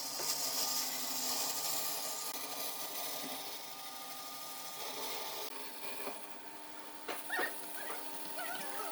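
Wood being worked by hand or machine, a hissing, rubbing sound for the first two to three seconds that then eases off, followed by a few short high squeaks near the end.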